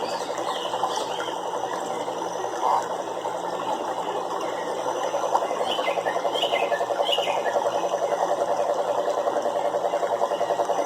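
A chorus of frogs calling in rapid pulsing trills that grows denser and more regular about halfway through, with a few short higher chirps in the middle.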